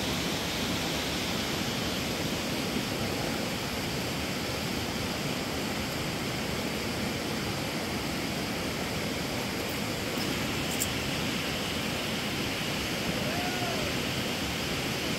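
Steady, even rushing noise with no rhythm or breaks, and a faint short voice-like sound near the end.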